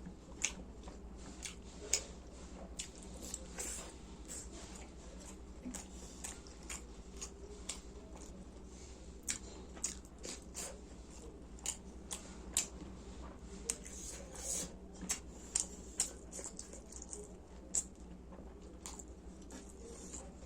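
Person chewing and eating veg momos: faint, irregular mouth clicks and smacks, dozens of them spread unevenly, over a steady low hum.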